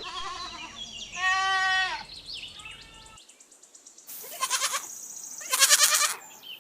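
Domestic goats bleating: a series of bleats, the clearest and longest about a second in, then two harsher bleats later on.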